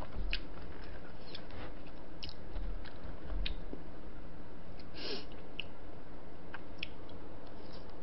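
Close-miked chewing and wet mouth sounds, with scattered short sharp clicks and smacks, over a steady low background hum.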